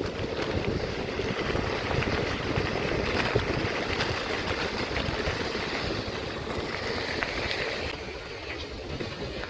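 Wind buffeting the microphone of a camera riding along on a moving bicycle, with the rolling rumble of the ride underneath; a steady rushing noise that eases slightly near the end.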